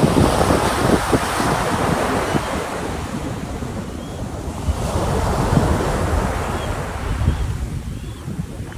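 Ocean waves breaking on a beach, the surf swelling near the start and again about five seconds in, then easing off near the end, with wind gusting on the microphone.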